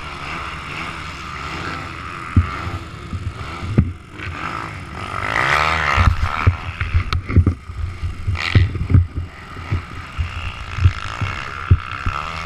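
Motocross bikes running on the track, with one engine rising then falling in pitch about five seconds in as it comes past. Short low thumps hit the microphone throughout.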